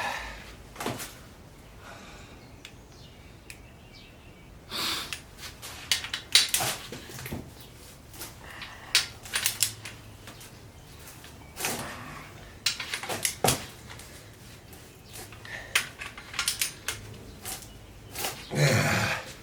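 Hand tools and sockets clinking and clanking against metal in irregular, separate knocks, with a longer scraping clatter near the end.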